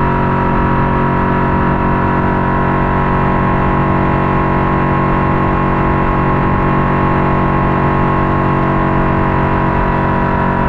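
Boat motor running steadily at constant speed, a loud, unchanging drone with a strong whine, with rumble and buffeting underneath.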